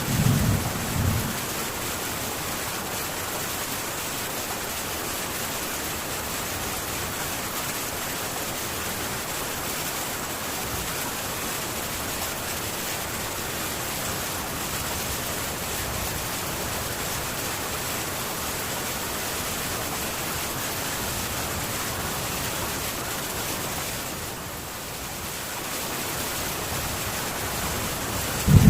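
Steady heavy rain falling on a metal tin roof, an even hiss with a slight dip a few seconds before the end. A thunder rumble dies away in the first second or so, and another thunderclap breaks in at the very end.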